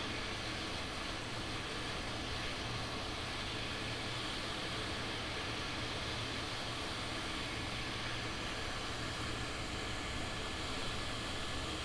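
Steady rushing air from an electric blower, with a constant low hum underneath.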